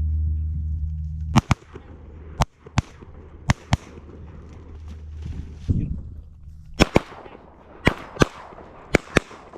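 Shotgun volley: about a dozen sharp shots, mostly in quick pairs, spread over several seconds as waterfowl hunters shoot at a flock of teal. A low steady hum stops about a second and a half in, just as the shooting starts.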